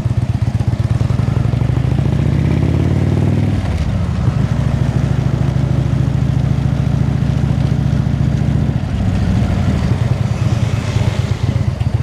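Indian V-twin motorcycle with Freedom aftermarket pipes and stage 2 cams running under way. The engine note climbs for a second or so about two seconds in, drops sharply as it shifts up, then holds steady, changing again near the end.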